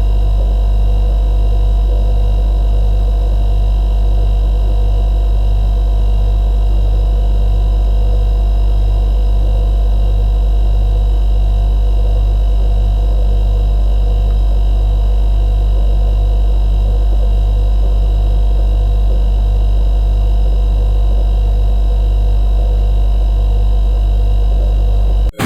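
Steady low electrical hum of a running kitchen appliance, with fainter steady tones above it.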